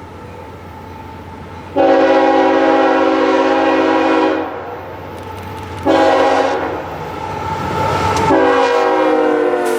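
A diesel locomotive's multi-chime air horn sounds a long blast, a short one, then another long blast, a grade-crossing style signal, as a train approaches. Its rumble builds near the last blast.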